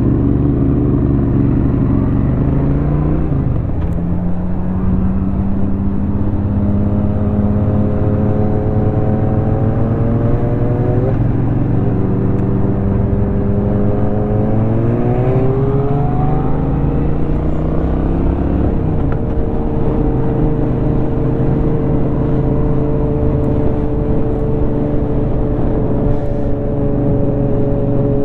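Honda Shadow 750's V-twin engine through an aftermarket Rinehart exhaust, heard from the saddle over wind rush. The engine note climbs and drops back sharply with gear changes, about three seconds in and again near eleven seconds, then climbs once more and holds a steady cruising pitch for the last ten seconds or so.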